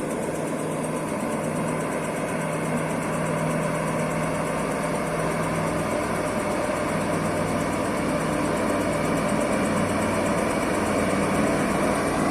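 An engine running steadily, slowly getting louder, with its low hum shifting lower in pitch about halfway through.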